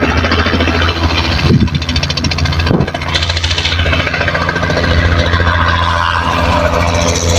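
A helicopter's turbine engine and rotor running close by: a steady deep drone with a fast, even pulsing from the rotor.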